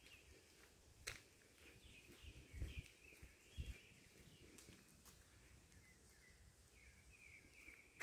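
Faint birds chirping and calling in the forest, short repeated notes throughout. A sharp click about a second in and a few soft low thumps a little later.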